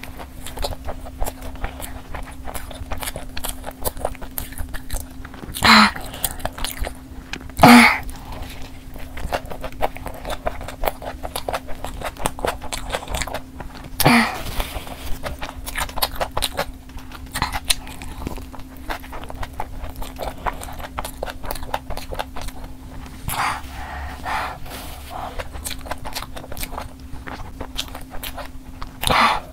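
Close-miked chewing of a sauce-coated fried chicken burger: dense wet smacking and crunching clicks, louder at a few moments.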